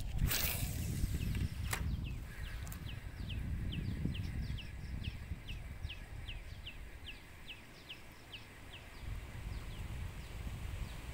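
A bird calling a long, even series of short high notes, each sliding down in pitch, about three a second, over a low rumble of wind on the microphone. A couple of sharp clicks come in the first two seconds.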